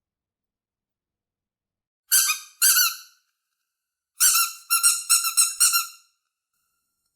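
High-pitched squeaks: two a moment apart, then a quicker run of five.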